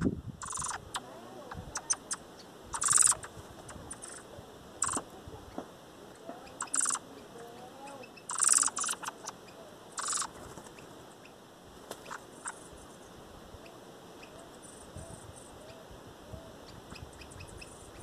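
Wild birds calling: a series of short, harsh, hissing calls every second or two, with faint low gliding whistles in the background.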